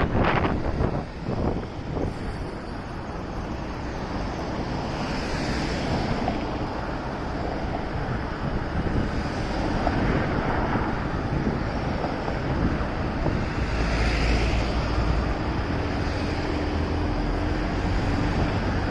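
Wind rushing over the microphone of a moving motorcycle, with engine and road rumble underneath. A steady low tone joins in for the last few seconds.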